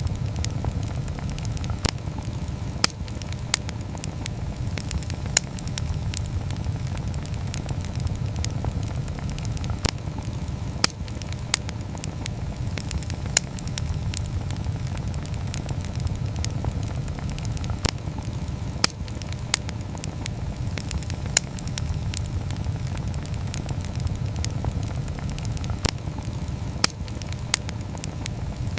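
Wood campfire burning, with a steady low rumble under frequent sharp, irregular crackles and pops.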